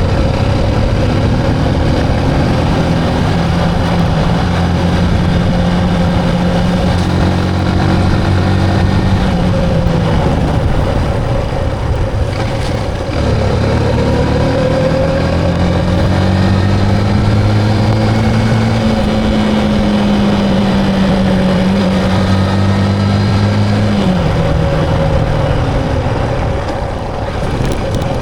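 Motorcycle engine running while riding, its pitch holding, dropping sharply about halfway through and climbing again with changes in speed or gear, over steady wind and road noise.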